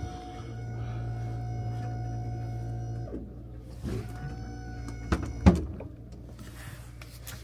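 Boat deck crane's motor running with a steady hum, then winding down with a falling pitch about three seconds in. A few sharp knocks follow, the loudest about five and a half seconds in.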